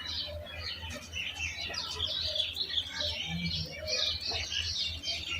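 Birds chirping: many quick, high calls overlapping without a break.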